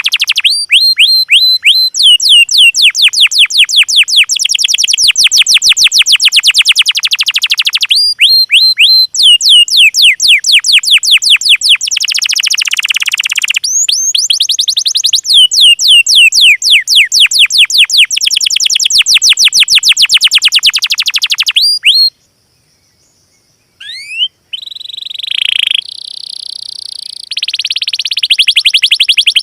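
Small songbird singing loud, fast trills of repeated sweeping notes, about ten a second, in long phrases. After a short silence near the end, a different, buzzier song with rising notes begins.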